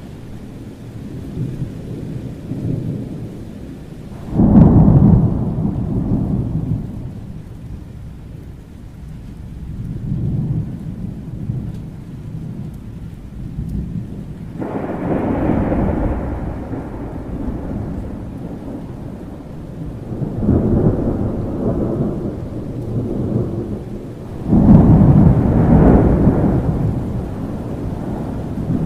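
Thunderstorm with rain: rolls of thunder break in suddenly and rumble away over a few seconds, four times, the loudest about four seconds in and again near the end, over a steady low rumble of rain.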